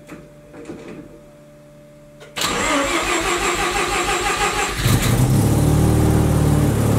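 Cold start of a Mazda RX-7 FC's 13B rotary engine: a few clicks, then about two seconds in the starter cranks with an even pulsing, and around five seconds in the engine catches and settles into a loud, steady fast idle.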